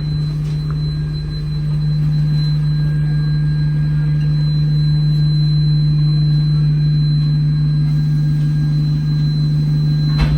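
Alexander Dennis Enviro200 single-deck bus heard from inside the saloon while running: a loud, steady low drone with a thin high whine held above it. The uploader hears a vacuum-cleaner-like noise on this bus and thinks it comes from the air-conditioning cooling fan.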